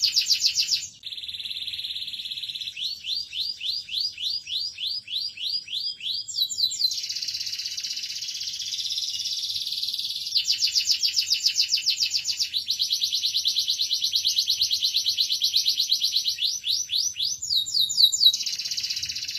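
Domestic canary singing a continuous song made of chains of repeated notes: fast, even trills alternating with slower runs of sweeping notes, a few per second, such as the run about three to six seconds in.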